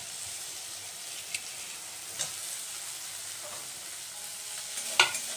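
Chopped tomatoes sizzling as they fry in oil with a mustard, ginger and green-chilli paste in a steel kadai, a steady hiss. A few short knocks come through it, the loudest about five seconds in.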